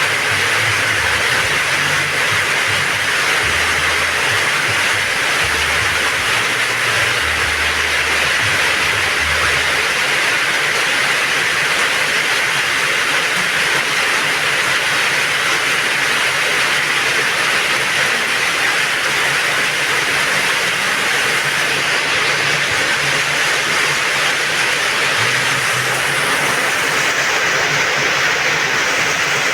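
Heavy rain pouring steadily, a dense even hiss of downpour. Some faint low rumbling sits under it in the first third.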